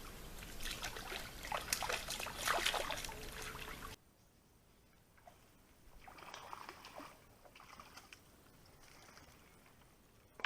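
Water splashing and trickling at the pond's edge, with many short splashes in the first few seconds; about four seconds in the sound drops away abruptly to fainter, scattered splashes.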